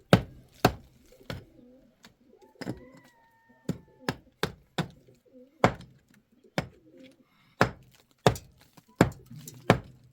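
Repeated sharp chopping strikes, often about two a second, with short pauses between runs. A brief steady call lasting about a second comes in about three seconds in.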